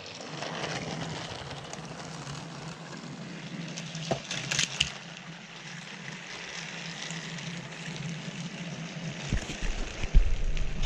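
Battery-powered TrackMaster toy train motors running on plastic track: a steady whirring hum, with a cluster of clicks about four seconds in and a few knocks near the end.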